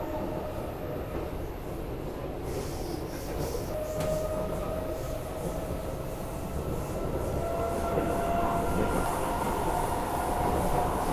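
Metro train running between stations, heard from inside the car: a steady rumble of wheels on the rails with a faint whine that slowly rises in pitch.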